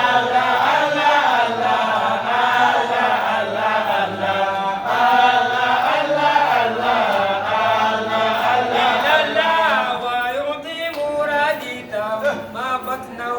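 Unaccompanied chanting of an Arabic devotional poem in praise of the Prophet, the vocal line drawn out in long, bending melismatic phrases.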